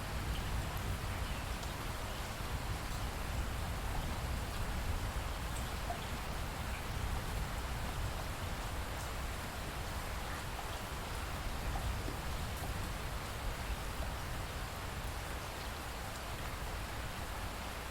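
Steady rain falling, a constant patter with faint scattered drop ticks over a low rumble.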